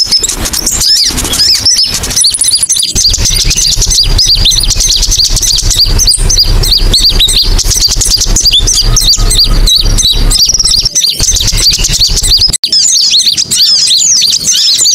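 A dense chorus of rapid, high chirps from many small birds, recorded as a lure call (suara pikat) for konin birds. A low hum runs under the chirping from about 3 s to 11 s, and the sound briefly drops out near 12.6 s.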